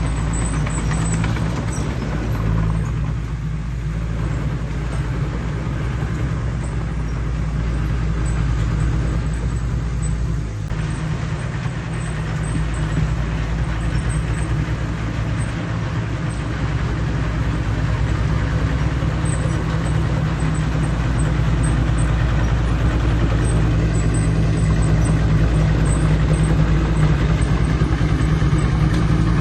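Heavy diesel earthmoving machinery running steadily, with a deep engine hum that grows a little louder toward the end.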